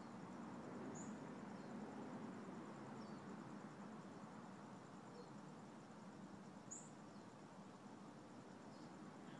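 Faint outdoor ambience: a low, even background noise with small, high chirps from distant birds about every second or two, two of them a little louder and higher, and a faint steady high-pitched trill underneath.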